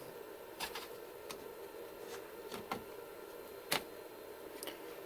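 Scattered light clicks and taps of a plastic cable drag chain being handled while its links are pried at, with one sharper click about three-quarters of the way through.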